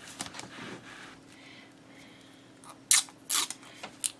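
Scissors cutting a strip of washi tape: soft handling rustle, then three short sharp snips in the last second and a half.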